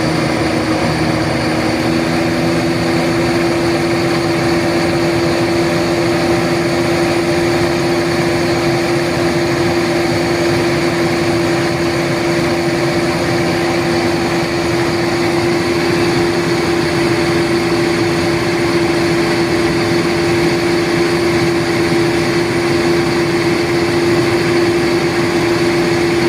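Small engine idling steadily through an aftermarket BJ exhaust. It holds one even note with no revs.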